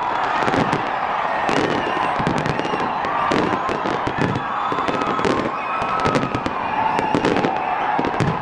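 Fireworks display going off: a dense, continuous run of bangs and crackling, with many sharp reports at irregular intervals.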